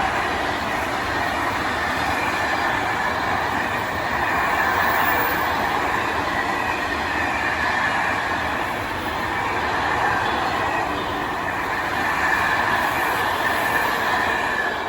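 Freight train rolling past at close range: a steady rush of wheels on rail with a high, wavering squeal.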